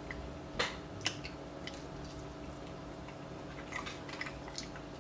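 A person eating a hot chicken wing: soft wet mouth clicks and smacks of biting and chewing, with two sharper clicks about half a second and a second in.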